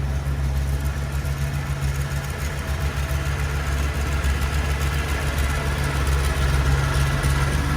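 Heavy-equipment diesel engine running steadily with an even, low hum.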